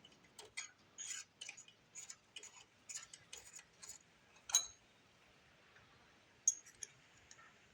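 Light, irregular metallic clicks and ticks from hand work on a small engine's exposed rocker arms and adjusters, about two or three a second, with one sharper click about halfway through.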